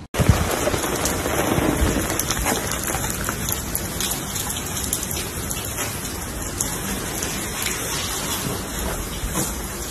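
Steady rain falling on paving, an even hiss with scattered sharp drop ticks.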